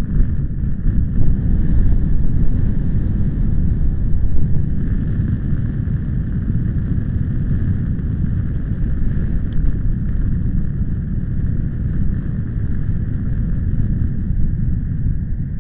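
Wind buffeting the microphone: a loud, steady low rumble that rises and falls in gusts.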